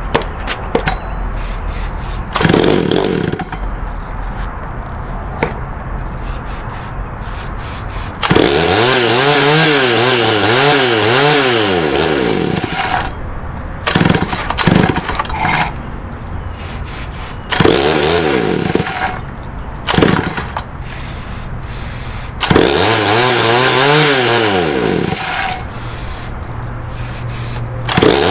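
Homelite 330 two-stroke chainsaw running rough at idle and revved in several bursts, its engine speed wavering up and down a few times a second while revved. This is the surging typical of fuel starvation, which the owner suspects comes from a bad fuel filter.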